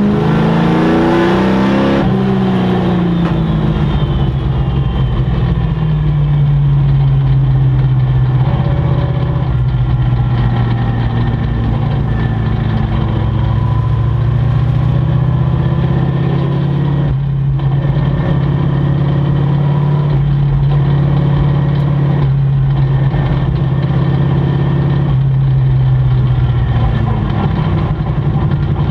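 Racing sport truck engine running hard, its pitch rising and falling in the first couple of seconds and then held nearly level for long stretches, with a few brief dips.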